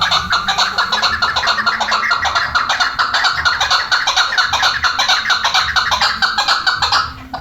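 Chukar partridge calling: a fast, unbroken run of short chuk notes, many a second, that stops abruptly near the end.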